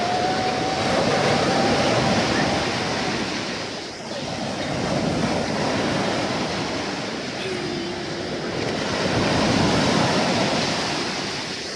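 Black Sea surf washing on the shore, a steady rush of water that swells and eases in slow surges every few seconds.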